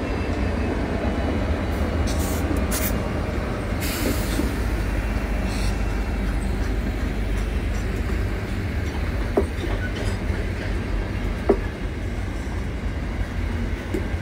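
Freight train passing close by, its diesel locomotives and then its hopper wagons rolling past with a steady rumble of wheels on rail. There are two short sharp knocks about two seconds apart near the end.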